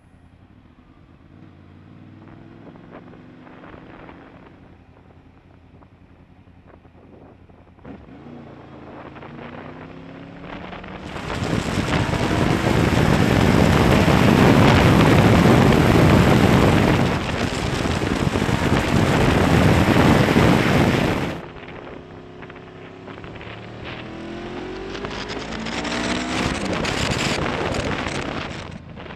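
Honda VFR800 VTEC's V4 engine accelerating, its pitch climbing again and again as it pulls up through the gears. For about ten seconds in the middle, loud wind rush on the helmet microphone at speed drowns it out.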